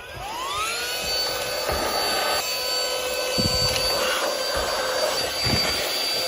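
Cordless handheld car vacuum switched on, its motor whining up to speed in about a second and then running steadily. A couple of dull knocks come partway through.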